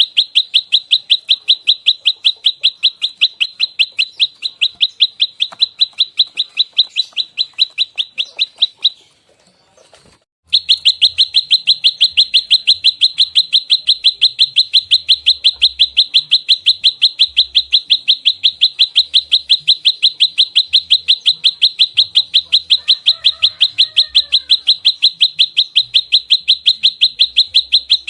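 Prenjak lumut, a small songbird, giving its rapid-fire 'fighting' call: a fast, even string of sharp high chip notes, about eight a second. The string breaks off briefly about nine seconds in, then resumes without a pause.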